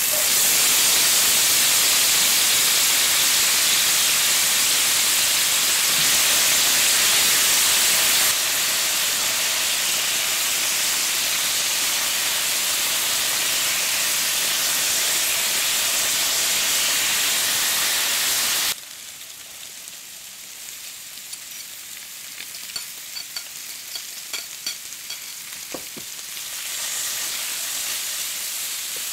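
Sliced potatoes frying in oil in a pan, a loud, steady sizzle. About two-thirds of the way through it drops to a quieter sizzle with scattered small pops and crackles as diced red onion is tipped in among the potatoes.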